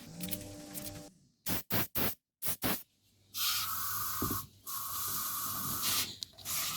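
An aerosol can of carburetor cleaner spraying, first in about four short bursts, then in three longer blasts of around a second each. It is cleaning the main jet and passages of a Briggs & Stratton lawnmower carburetor.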